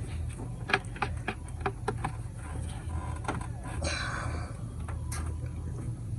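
Scattered clicks and light clanks of hand tools and engine parts being handled, with a brief scraping rustle about four seconds in, over a steady low hum.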